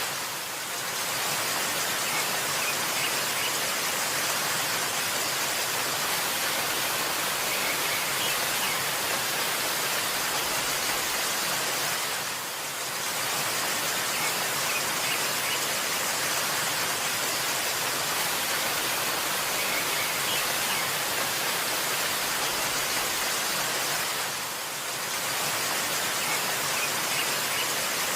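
Waterfall rushing in a steady, even roar of falling water that dips slightly in level about every twelve seconds. A few faint high chirps, likely birds, sit just above the water noise.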